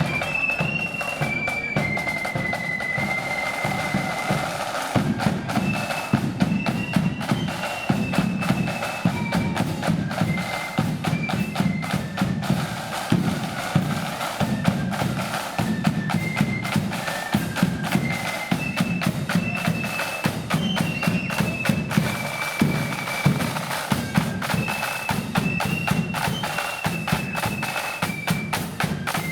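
Marching flute band playing a tune: massed high flutes carry the melody over rapid snare-drum rolls and steady bass-drum beats, in the loud 'blood and thunder' style.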